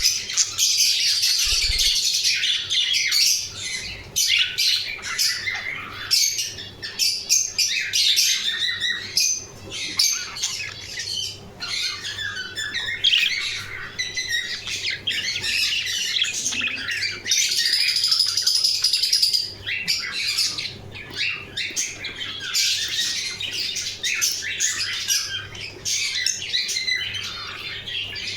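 Budgerigars chattering and squawking without pause, a dense mix of short high warbles, chirps and clicks, with one longer held high call about two-thirds of the way through.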